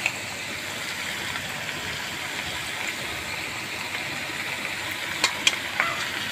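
Chicken pieces sizzling steadily in hot oil and sauces in a pan, with a few sharp clicks about five seconds in.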